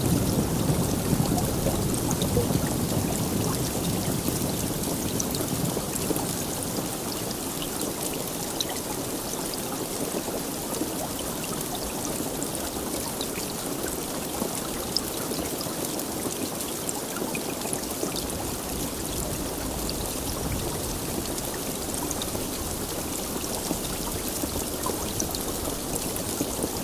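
Heavy rain falling steadily, a dense hiss with many fine drop ticks. A low rumble at the start dies away over the first several seconds.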